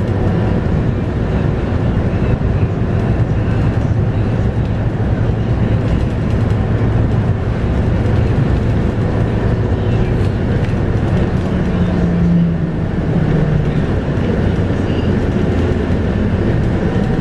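Scania K230UB bus's 5-cylinder DC9 diesel engine running steadily with its ZF Ecomat automatic gearbox, with steady road noise, heard on board. A short steady tone comes in about two-thirds of the way through.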